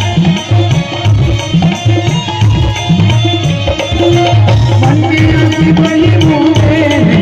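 Music played over a DJ sound system, with a heavy bass beat about twice a second under drums and a melody line.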